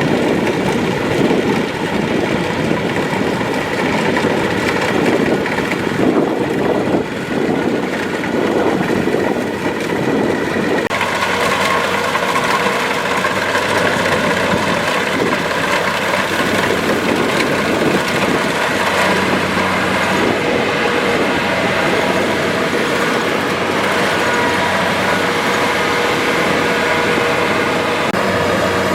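Kubota DC-70 Plus rice combine harvester running steadily under load, its diesel engine and harvesting machinery going together. About eleven seconds in, the tone of the machinery shifts and becomes brighter and less boomy.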